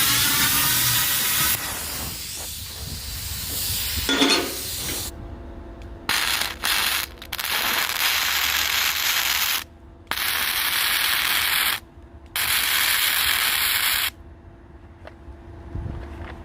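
Power tool run in three bursts of a few seconds each, switched on and off abruptly, with a loud gliding whine in the first second or so; it is cutting air holes in the stove.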